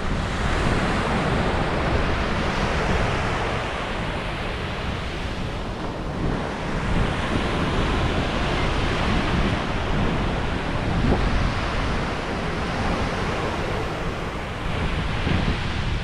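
Ocean waves breaking on a beach, the surf swelling and easing every few seconds over a steady low rumble.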